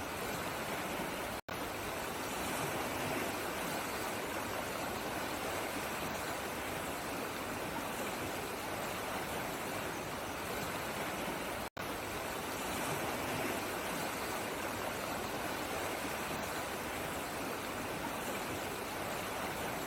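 Steady rushing of flowing water, like a stream, with no change in strength. It drops out for an instant twice, once near the start and once just past the middle.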